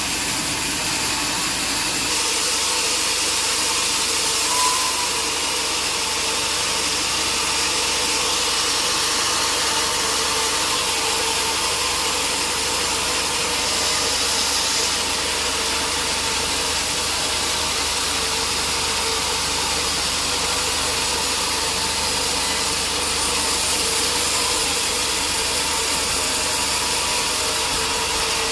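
Sawmill machinery running steadily: a dense, even noise with a constant hum underneath.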